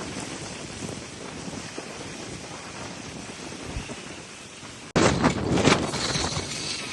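Gale-force wind rushing, with wind buffeting the microphone. About five seconds in, the sound cuts abruptly to louder, rougher gusts hitting the microphone.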